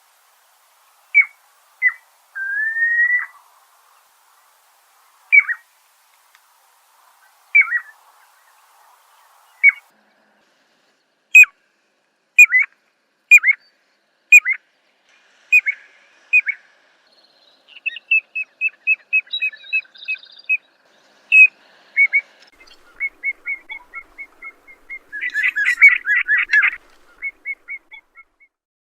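Small songbird calling: sharp, down-slurred single notes every second or two and a short rising whistle, then fast trills of evenly repeated notes, with a dense chattering burst near the end.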